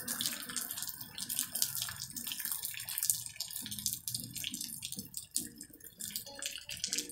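Rain falling and dripping onto wet concrete: a dense patter of small splashes and drips.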